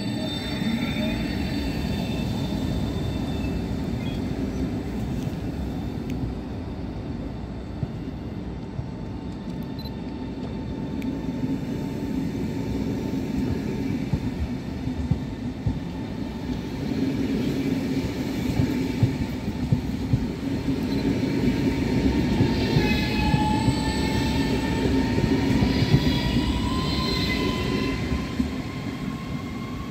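Italo ETR 675 high-speed electric train moving slowly past along the platform, with a steady rumble of wheels on rail. In the last several seconds a high whine dips and then climbs slowly in pitch.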